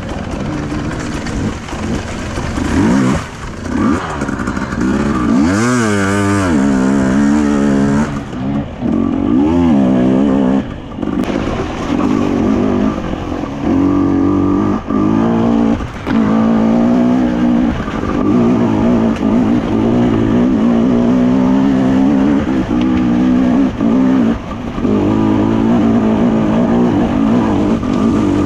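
Enduro dirt bike engine being ridden, revving up and down in pitch, with brief throttle cuts every few seconds.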